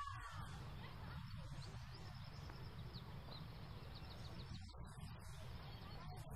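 Quiet room tone with a steady low rumble and faint bird chirps: a short call at the start and a quick run of high chirps a few seconds in.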